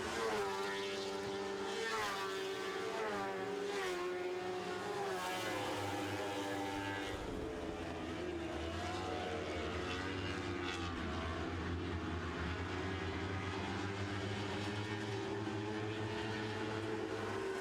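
A pack of Lightning Sprint race cars with 1,000cc motorcycle engines running at high revs, held in one gear. Their engine pitch falls and rises repeatedly in the first few seconds, then holds steadier.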